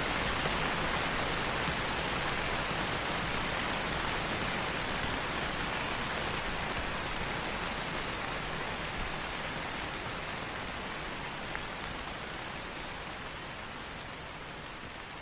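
Steady rain falling on leaves, an even hiss with a few distinct drop ticks, growing gradually quieter throughout.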